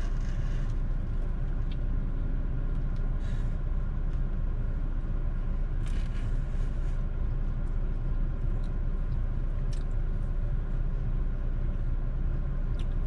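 Steady low rumble of a car running while parked, heard inside the cabin, with a few faint soft clicks from handling food and eating.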